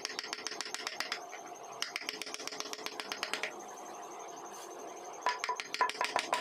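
Rapid sharp tapping of a carving chisel driven into wood, about ten taps a second in runs of one to two seconds with short pauses between.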